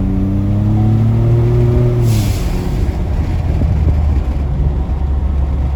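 Twin-turbo 2.7 L EcoBoost V6 of a Ford F-150 with an MBRP straight-through dual exhaust, accelerating with its pitch rising. About two seconds in the throttle lifts and the Turbosmart blow-off valve lets out a short hiss, and the exhaust drops to a low steady rumble.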